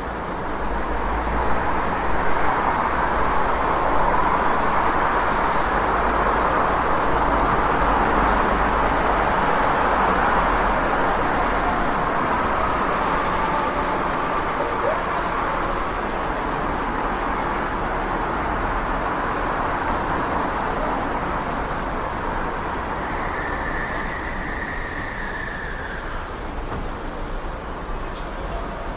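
City street traffic: a steady wash of vehicle noise over a low rumble, swelling over the first few seconds and slowly easing off. A faint, thin high tone comes and goes about three-quarters of the way through.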